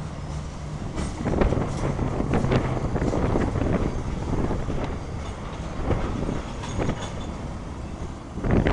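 Freight train cars rolling past on the rails, the wheels clacking and knocking over rail joints. The sound gets louder about a second in.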